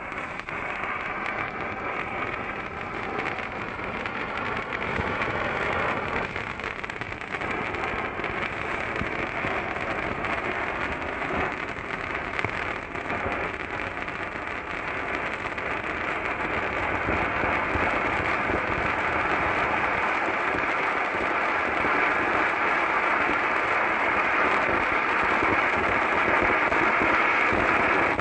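Pyrotechnic fountain firework burning with a steady hissing crackle of sparks, growing gradually louder.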